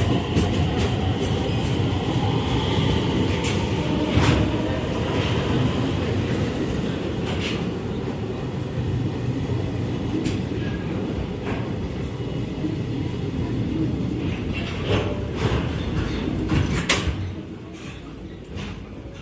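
Container freight train hauled by an EF210-100 electric locomotive rolling past at very low speed: a steady rumble of wagon wheels with scattered clicks and knocks. A faint squeal is heard early on, and the sound gets quieter near the end.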